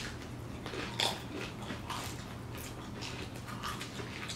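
Chewing and crunching on tortilla chips topped with queso and marshmallow, a scatter of irregular crunches.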